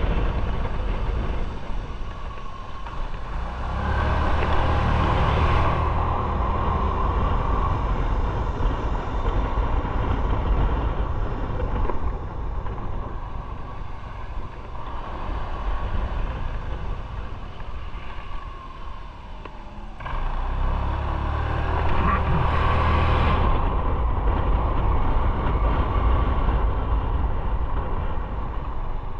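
Motorcycle on the move: engine and wind noise on the rider's microphone, swelling louder twice, about four seconds in and again about twenty seconds in.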